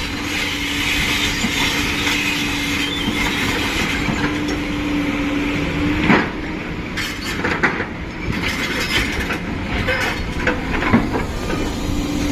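JCB 5CX backhoe loader working, its diesel engine running with a steady hum. From about six seconds in there is a run of sharp metallic knocks and clanks.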